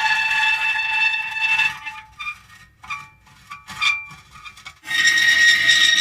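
Metal creaking: a long, drawn-out squeal that stops about two seconds in, a few short squeaks, then another long creak near the end.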